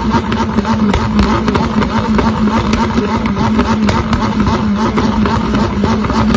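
A sports car's engine with a Gintani aftermarket exhaust, running at steady revs. The exhaust note holds a constant pitch, with many short, sharp crackles over it.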